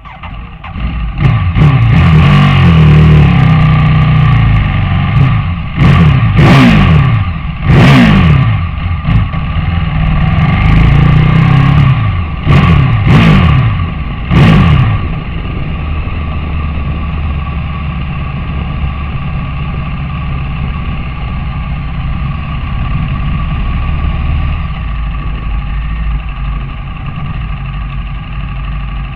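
Superbike racing motorcycle engine running at high revs, with several sharp drops in pitch between about six and fifteen seconds in as the revs fall, then settling into a steadier, quieter drone.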